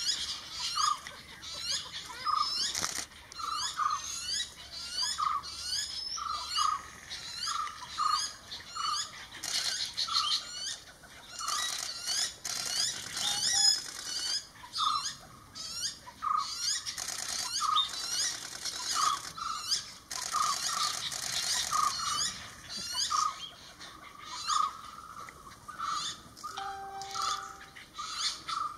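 Jungle babblers and a common hawk-cuckoo chick calling: a short note repeating about one and a half times a second throughout, over bursts of quick, high, squeaky chattering notes. A brief steady whistle sounds near the end.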